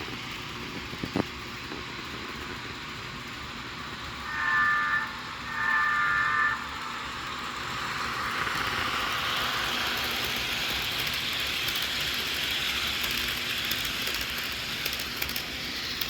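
HO scale Rapido FP9A model diesel locomotive with DCC sound running on the layout: the steady running sound of the model and its sound decoder, with two horn blasts about four and five and a half seconds in. The running sound grows louder from about eight seconds in.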